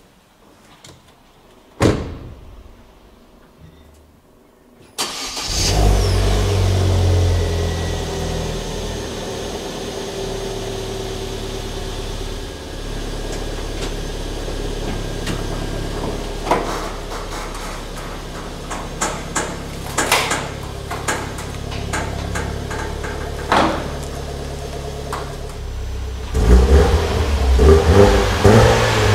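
A single thump, then about five seconds in the 2016 Opel Corsa OPC's 1.6-litre turbocharged four-cylinder engine starts with a loud surge and settles into a steady idle, with a few sharp clicks. Near the end it is revved.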